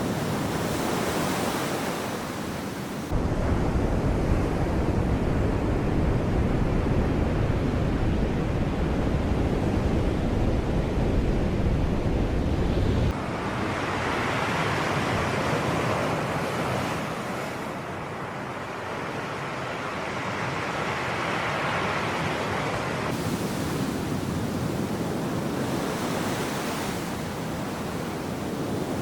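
Sea waves washing ashore: a continuous surf hiss that swells and fades, loudest around the middle and again near 21 seconds in. From about three seconds in to about thirteen, a deep rumble sits under the surf and cuts in and out abruptly.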